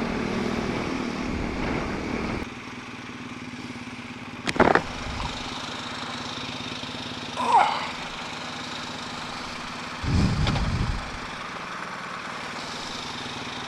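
BMW R1250 GS Adventure motorcycle ridden along, its boxer-twin engine running under a steady rush of riding noise. The level drops about two and a half seconds in, there is a sharp click a couple of seconds later, and the engine swells louder for about a second around the ten-second mark.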